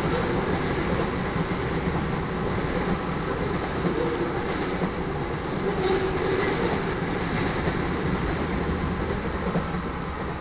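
Tank cars of a crude oil freight train rolling past, a steady rumble of steel wheels on rail, beginning to die away as the last car clears near the end.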